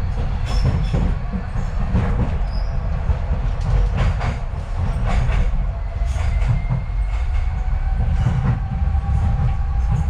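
Docklands Light Railway train running along the track, heard from inside the carriage: a steady low rumble with repeated clicks from the wheels. A faint whine comes in about halfway and rises slightly in pitch.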